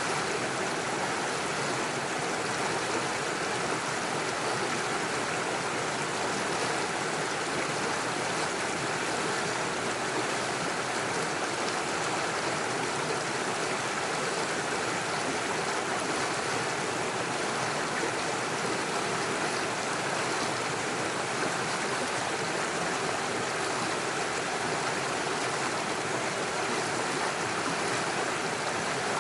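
Small mountain stream rushing and splashing over stones and little waterfalls, a steady, unbroken water noise.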